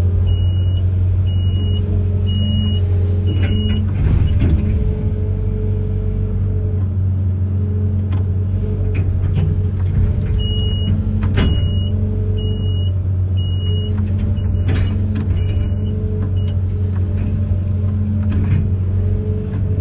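Amphibious excavator's diesel engine running steadily, with a high beeping about twice a second in the first few seconds and again for several seconds in the second half, and a few clunks, the loudest about four seconds in and again past the middle.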